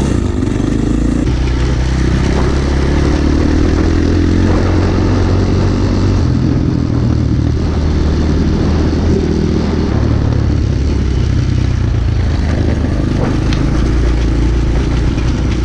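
Pit bike's small single-cylinder engine running under way while riding off-road, a steady engine note that shifts a little in pitch.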